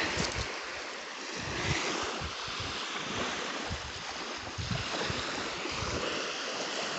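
Sea waves washing onto the shore at high tide, a steady wash with gusts of wind buffeting the microphone.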